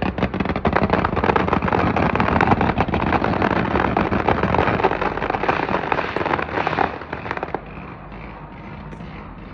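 A long string of firecrackers going off in rapid pops that die away about three-quarters of the way through, leaving a quieter steady noise.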